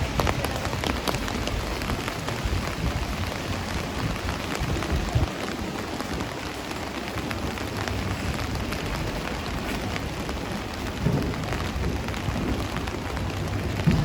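Steady rain falling, with many close drops ticking sharply over the hiss.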